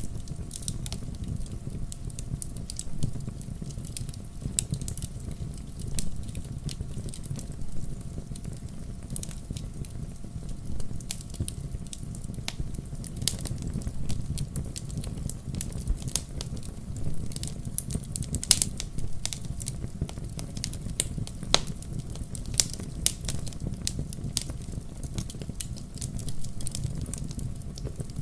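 Wood fire burning in a fireplace: irregular sharp crackles and pops over a steady low rumble of the flames, with a few louder pops now and then.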